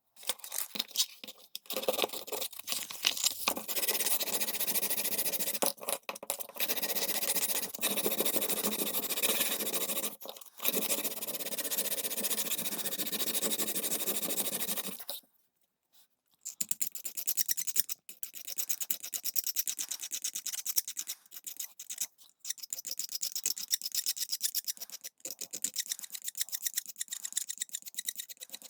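Scratching, scraping strokes of hand abrasive work on a small screwdriver. A dense run of strokes is followed by a short pause about fifteen seconds in, then quicker, sharper strokes.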